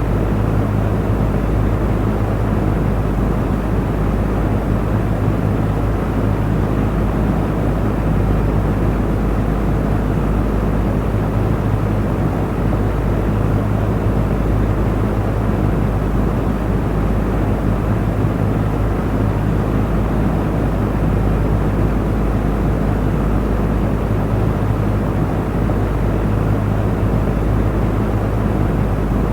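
Electric fan running steadily: an even rushing of air over a constant low motor hum.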